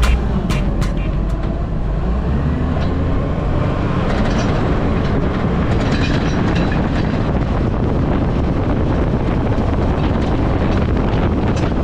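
Strong wind buffeting the microphone: a steady, heavy rumbling noise, strongest in the low end.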